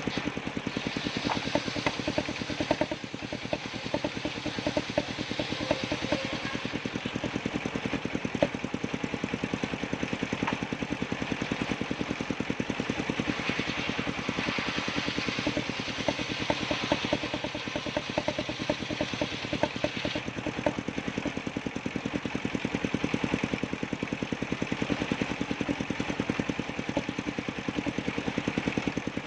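Engine-driven circular sawmill running on sengon wood: the engine chugs steadily with a rapid, even beat, while a hiss from the saw swells and fades.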